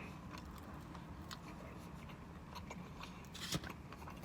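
Faint chewing of food, with a few soft mouth clicks and crunches; the loudest is about three and a half seconds in.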